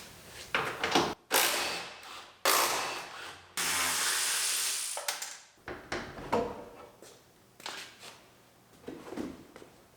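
Tools taking the bolts out of a car door's hinges: ratchet-like clicking and metal clanks, with a steady noise lasting about two seconds near the middle.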